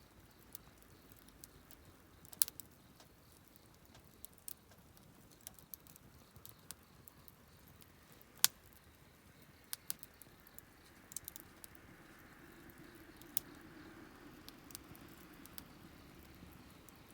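Wood fire crackling: scattered sharp pops and snaps over a faint hiss, the loudest pops about two and a half and eight and a half seconds in, with the hiss swelling a little in the second half.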